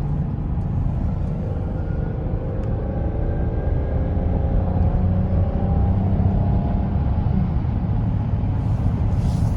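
Steady road noise of a car driving slowly, heard from inside the cabin: a low rumble of engine and tyres, with a faint whine that drifts slightly in pitch.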